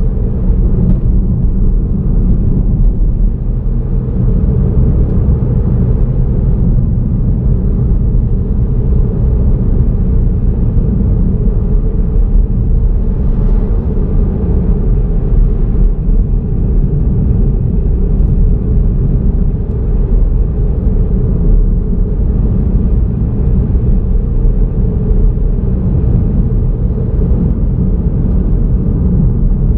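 Steady low rumble of a car driving along a road: tyre, engine and wind noise with no changes.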